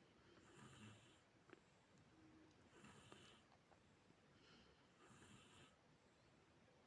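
Near silence: faint room tone with soft, regular swishes about every two seconds.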